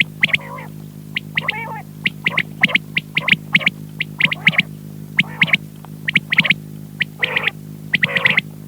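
Quail calling: short, sharp high calls repeated in quick pairs and triplets, with lower, wavering calls between them, over a steady low hum.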